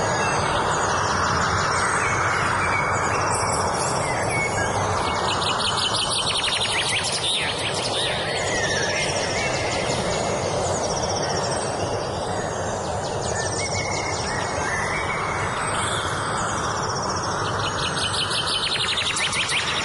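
Several wild birds singing, with repeated high phrases and rapid trills, over a steady background noise.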